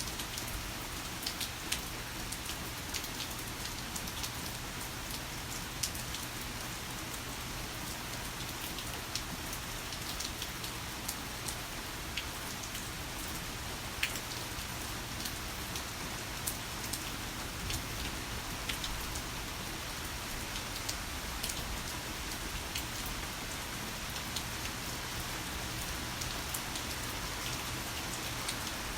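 Heavy rain falling steadily, with scattered sharp taps of individual drops striking a surface.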